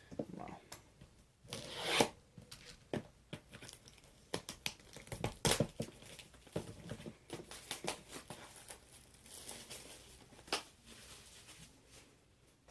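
Plastic wrapping on a sealed box of trading cards being torn and crinkled by hand, in irregular crackling rustles with a few sharper rips.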